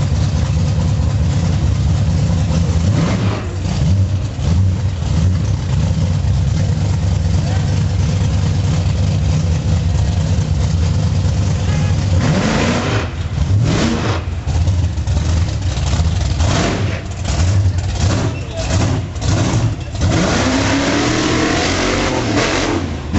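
Monster truck engine running at low revs, then revved hard in several bursts from about halfway through, the pitch rising with each one.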